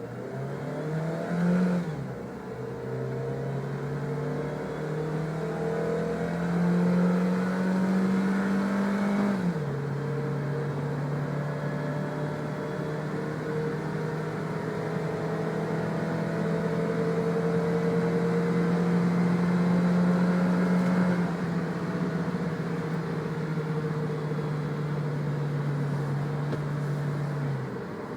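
Suzuki Jimny's four-cylinder petrol engine accelerating hard, its pitch climbing steadily through each gear. The automatic gearbox shifts up about two seconds in, again near ten seconds and again near twenty-one seconds, and each shift drops the pitch. The engine note fades near the end.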